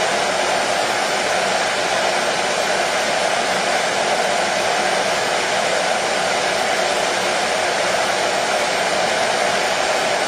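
Hair dryer running steadily, a constant even rush of air and motor noise without change, used as white noise for soothing a colicky baby to sleep.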